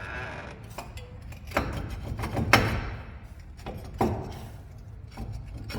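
Metal clanks and knocks from tools and brake parts being handled during front brake work: three main knocks with short ringing, the loudest about two and a half seconds in, and a few smaller clicks between them.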